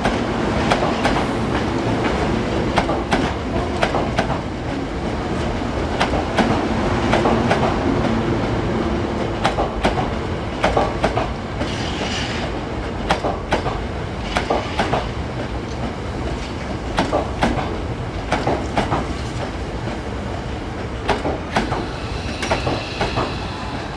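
Hankyu electric train running at a station, wheels clicking irregularly over rail joints and points over a steady rumble, with a brief high wheel squeal about halfway through and again near the end.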